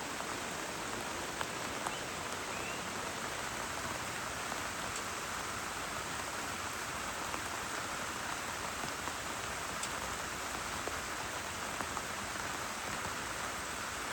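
Steady heavy rain falling, with now and then a single louder drop ticking on a surface.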